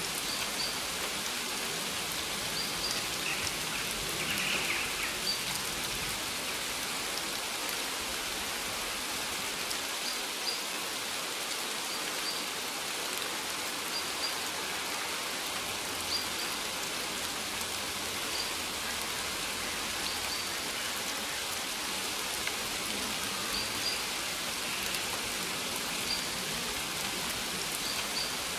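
Steady rain falling on maize plants, an even patter of drops. Short faint high notes recur every second or two above it.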